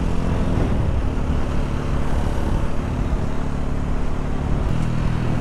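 Small Chinese single-cylinder motorcycle engine running under way; its note drops about half a second in and changes again near the end.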